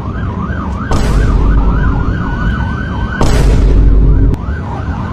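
Police siren in a fast yelp, its pitch sweeping up and down about three times a second and holding on one high note for a moment. There are two loud sudden surges of deep rumble about one and three seconds in.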